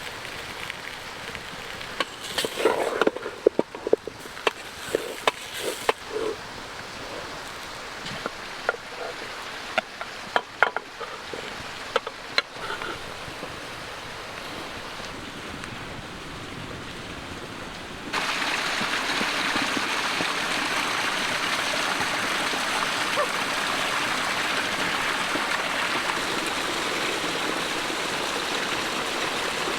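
Scattered knocks and clicks over a low background hiss; about two-thirds of the way in, the steady rush of a small creek comes in abruptly and carries on.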